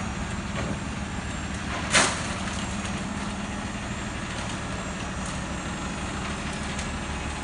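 Truck engine idling steadily, with a single sharp clank about two seconds in.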